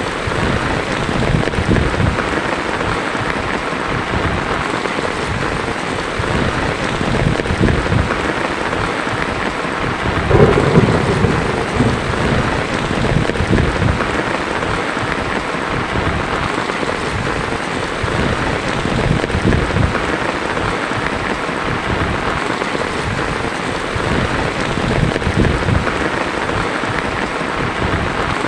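Heavy rain falling steadily on a tin roof, with thunder rumbling through it and one louder crack of thunder about ten seconds in.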